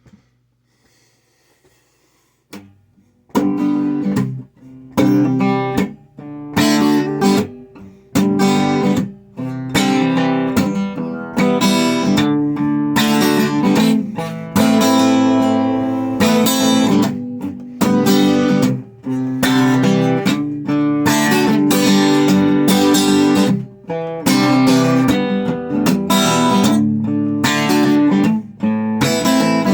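Acoustic guitar strumming chords in a steady rhythm, starting about three seconds in: the instrumental intro to a song.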